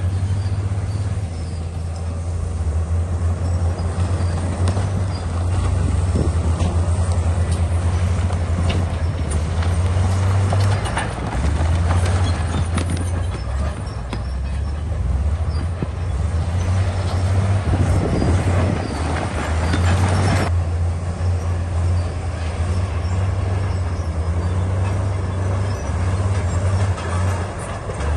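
Bulldozer's diesel engine running steadily under load with a deep drone, over clanking tracks and scraping rock. A louder stretch of grinding and scraping past the middle stops suddenly.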